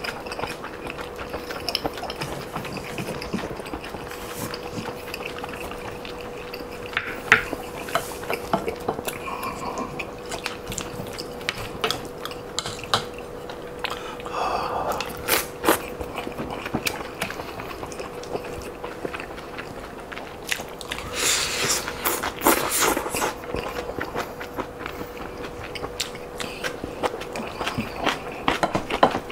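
Close-miked chewing and mouth smacking of a man eating shrimp fried rice and stir-fried webfoot octopus, with clicks of a spoon against the plate. A faint steady hum runs underneath.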